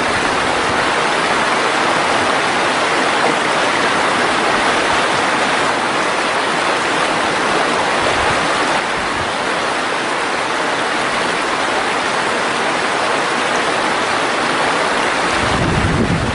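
Mountain valley stream running, a steady rush of water. Near the end a low rumble of wind buffeting the microphone comes in.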